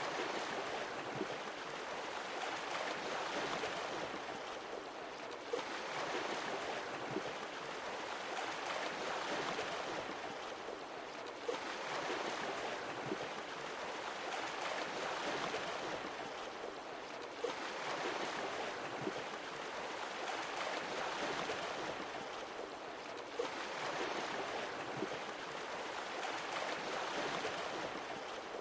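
Sea waves washing on a shore, the surf swelling and falling back about every six seconds, with a short click as each swell begins.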